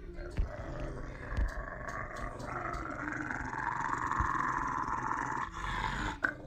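A pet animal growling in one long, continuous growl that stops shortly before the end.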